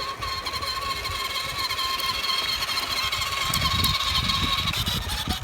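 Peg Perego Ducati children's ride-on electric motorcycle running, its electric motor and gearbox giving a steady high whine, over a low rumble of wind on the microphone. The whine fades near the end.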